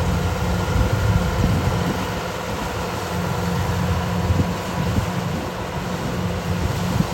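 Kubota DC-105X rice combine harvester's diesel engine running steadily.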